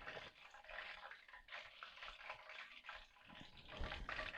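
Faint, steady crackle of hot deep-frying oil and freshly fried chicken sizzling, with a soft low bump near the end.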